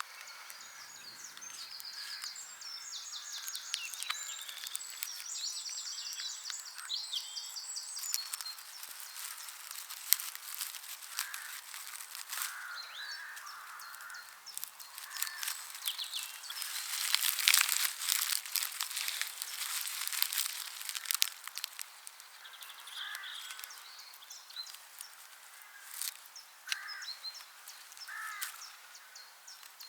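Dry thatching straw crackling and rustling as it is handled and worked into a coil, with a louder stretch of crackling just past halfway. Birds sing and call in the background, with a run of high chirping song in the first few seconds.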